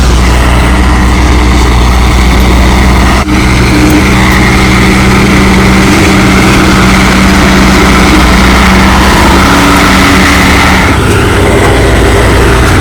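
Tow truck's engine running steadily, a loud low drone.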